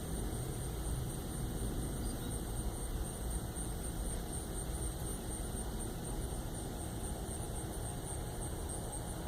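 Steady outdoor background noise: a low, even rumble with a thin, high, finely pulsing trill running through it. No separate knock or call stands out.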